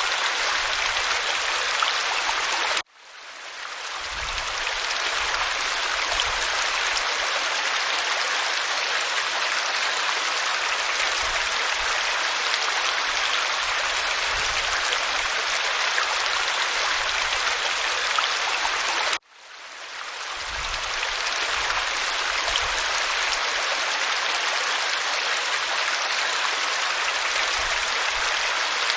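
Waterfall pouring over rock: a steady rush of falling water. It cuts out abruptly twice, about three seconds in and again some sixteen seconds later, each time fading back up within a second or two, as at the seam of a looped recording.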